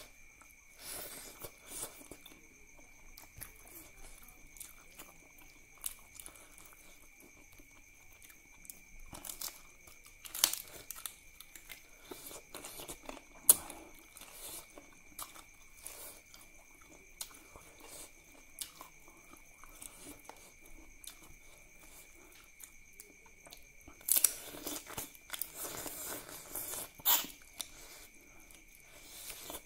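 Close-miked eating: a man biting and chewing mouthfuls of duck curry and rice taken by hand, in irregular wet chews with a few sharp clicks, and louder chewing near the end. A faint steady high-pitched whine runs underneath.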